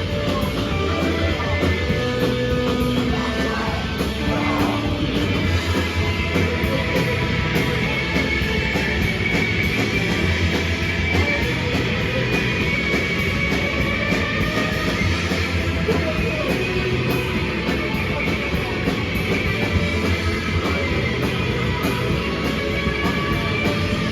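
Live rock band playing loud and dense, with electric guitars and a drum kit.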